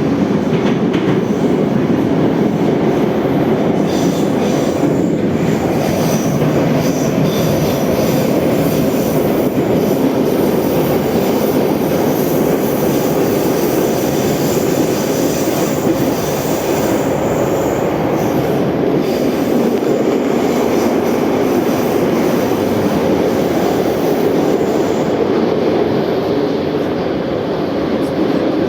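Moscow Metro 81-717/714 train running between stations, with steady wheel and rail noise inside the car. A high wheel squeal rises over it from about four seconds in and fades a little past halfway.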